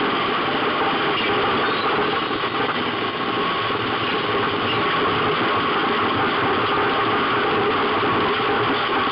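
Race car engine running steadily while driving, heard from inside the stripped cockpit, with a constant dense rush of road noise.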